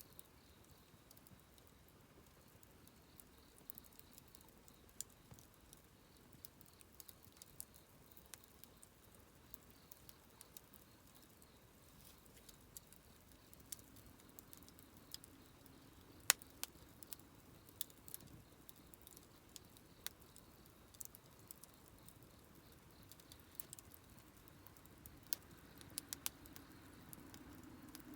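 Wood campfire crackling quietly, with scattered sharp pops and snaps from the burning wood, one louder pop about halfway through.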